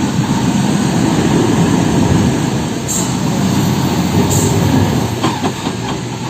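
Heavy truck on the move: a loud, steady rumble of engine and road noise, with two short hisses about three and four seconds in and a few rattling knocks near the end.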